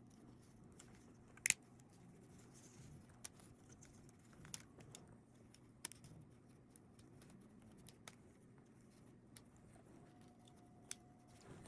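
Faint, scattered sharp clicks and snaps of plastic support pieces being cracked and pulled off a freshly 3D-printed dagger, about a dozen in all at irregular intervals. A faint steady tone starts near the end.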